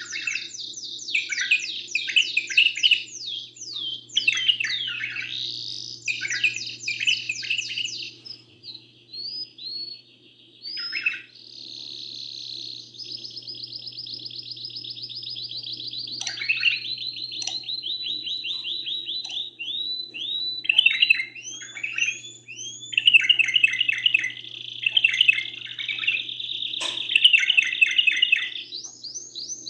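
Domestic canary singing: fast high trills and repeated chirping phrases, with long rolling trills held for several seconds about twelve seconds in and again near the end. A faint steady low hum sits underneath.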